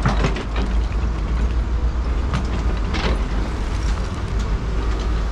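Motor vehicle running on the road: a steady low rumble with road noise, and a few brief knocks or rattles near the start and about three seconds in.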